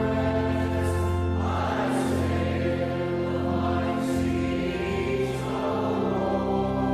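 Gospel worship music with a choir holding long chords over a bass line that moves every second or two.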